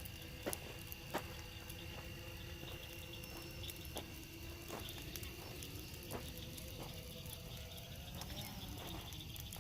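Burning brush bonfire crackling, with irregular sharp pops; the two loudest come about half a second and a second in.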